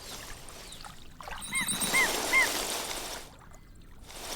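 African jacana calling: three short, quick arched notes about a second and a half in, over a steady hiss.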